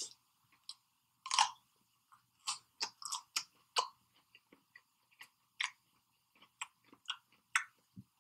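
A person chewing a mouthful of boiled seafood close to the microphone: irregular wet mouth clicks and smacks, a few a second.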